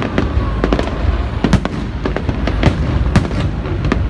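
Aerial firework shells bursting in quick, irregular succession: a dense run of sharp bangs and crackles over a constant low rumble.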